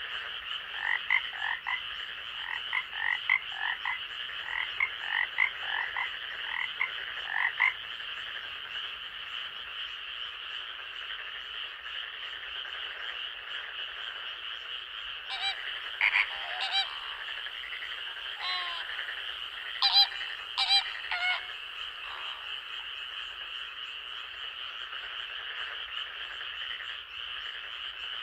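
Night forest chorus of frogs. In the first several seconds one frog repeats short two-note calls about twice a second, over a steady high-pitched chorus. A few louder, sharper calls break in about halfway through.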